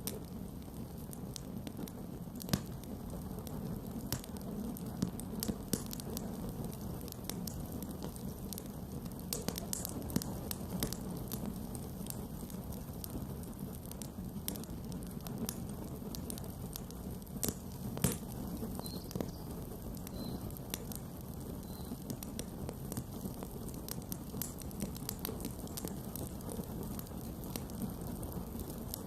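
Campfire burning with irregular crackling and sharp pops of burning wood over a steady low rush of flame; a couple of louder pops stand out, one about two seconds in and one near the middle.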